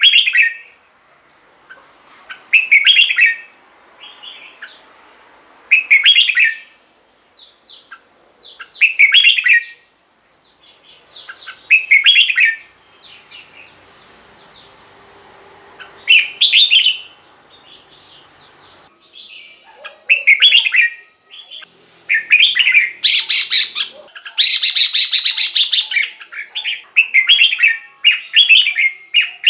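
Red-whiskered bulbul singing loud, short, warbling phrases about every three seconds, with quieter notes in between. In the last third the phrases come quicker, with a harsh chattering burst a little past the middle of that stretch.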